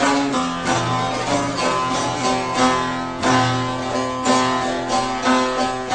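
Instrumental break of a Turkish folk song (türkü): plucked string instruments play the melody in quick repeated notes over a steady bass line, with no singing.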